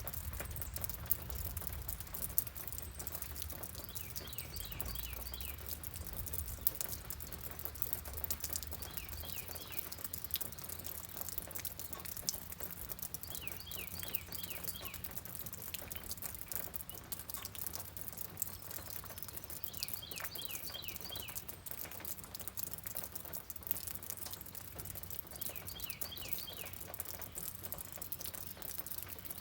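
Steady rain pattering, with a low rumble in the first several seconds. A bird repeats a short phrase of four or five quick descending notes about every five to six seconds.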